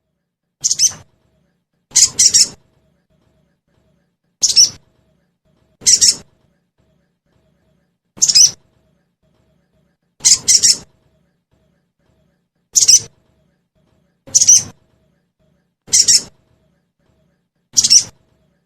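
Sogon bird calling: short, sharp high-pitched calls, some given as quick doubles, repeated about every one and a half to two seconds. This is a lure recording meant to make a caged sogon answer.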